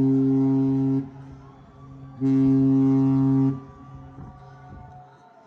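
Two long, steady blasts of the Carnival Conquest's cruise ship horn, one deep tone each, starting and stopping sharply, about a second apart, with echo trailing after each.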